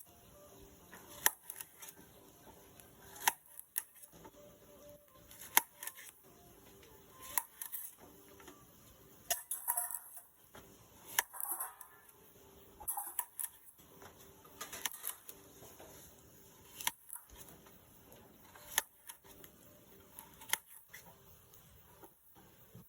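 Sharp taps and knocks, roughly one every two seconds, with a few longer clattering bursts about halfway through, from roti being made.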